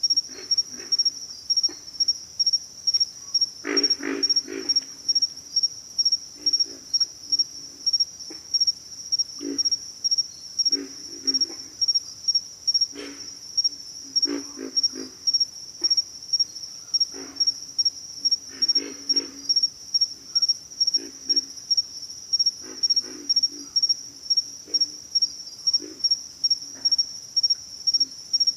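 Pig frogs grunting: short bursts of low, rough, pig-like grunts every second or two, some in quick runs of several. Under them runs a high-pitched insect call that pulses steadily about twice a second.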